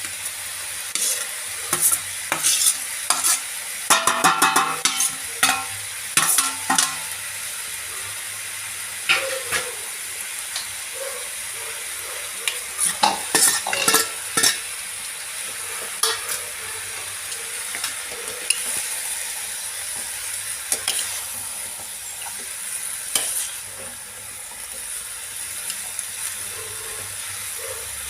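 Chicken with ginger-garlic, onion and tomato sizzling steadily in a pan, while a spoon stirs it, clinking and scraping against the pan in clusters in the first several seconds and again about halfway through.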